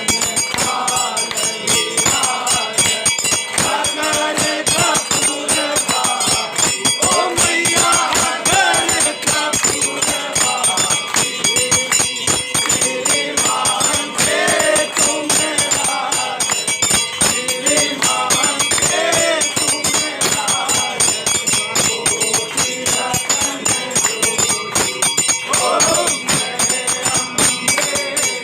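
A group singing a Hindu aarti, with fast, continuous jingling and clashing percussion throughout.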